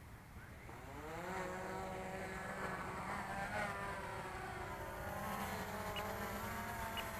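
Electric motor and propeller of a radio-controlled aircraft in flight, faint, its whine rising in pitch about a second in as the throttle comes up, then running fairly steadily with small changes in pitch.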